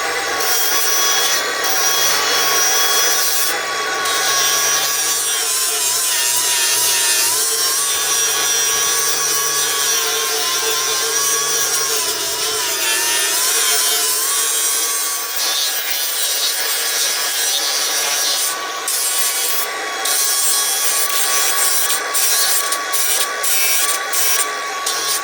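Milwaukee M18 Fuel cordless angle grinder running hard under load, its wheel grinding rust off a rusty billet steel hitch tongue, motor whine over the scraping of the wheel on metal. The pitch sags briefly a couple of times as it is pushed into the work, and in the last ten seconds the grinding turns choppy.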